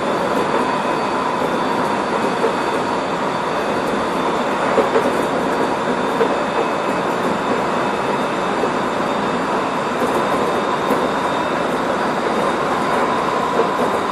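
Odakyu 1000 series electric train motor car running at a steady speed: even wheel-and-rail rolling noise with a steady high whine, and a few light knocks from the track.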